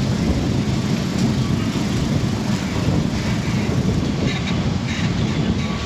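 Lisbon Tram 28 historic tram running along its rails, a steady low rumble.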